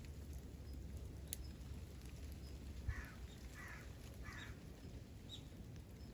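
A crow cawing three times in quick succession, over a low steady background rumble, with a single sharp click and a thump shortly before the calls.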